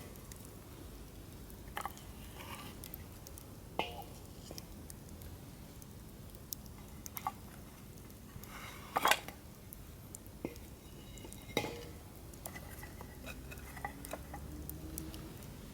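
Wood campfire crackling, with scattered sharp pops and snaps over a low steady rush of burning, the loudest snap about nine seconds in; the firewood has just been added and is catching.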